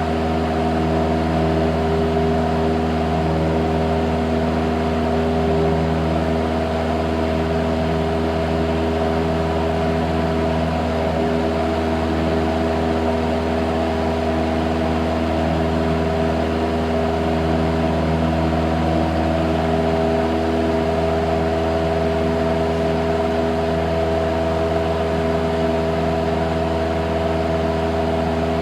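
Cessna 172's piston engine and propeller droning steadily in flight, a constant deep hum with a hiss of airflow over it.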